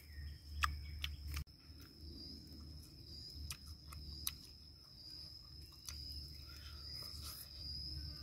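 A person chewing and smacking on roast chicken, with scattered sharp wet clicks from the mouth, over a steady high-pitched insect drone.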